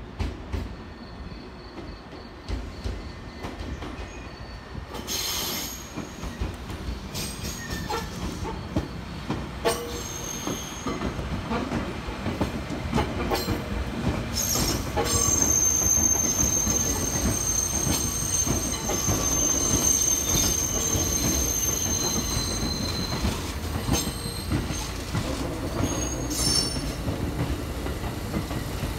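JR Kyushu 787-series electric train (the 36ぷらす3) running past over the tracks into a siding: wheels rumbling and clicking over rail joints and points, getting louder as it comes near, with a steady high-pitched wheel squeal from about halfway in.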